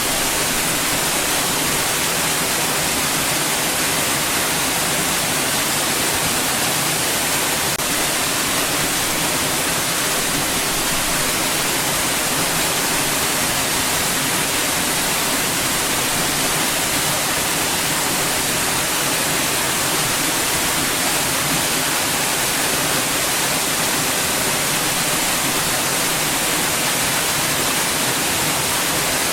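Steady, unchanging white noise: an even hiss, strongest in the treble, played continuously for relaxation and sleep.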